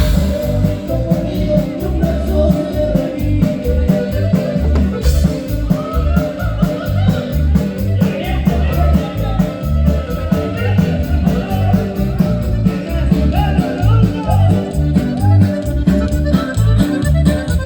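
Ranchero band playing live with ambient sound: an instrumental passage of the corrido, with a steady beat and strong bass.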